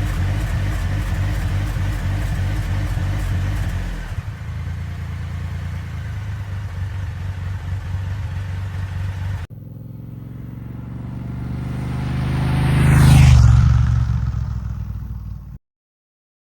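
Motorcycle engines in cut-together clips: one engine running steadily, then a different engine note, then after a sudden cut a machine approaching and passing close by, loudest about two-thirds of the way through. The sound cuts off abruptly about a second before the end.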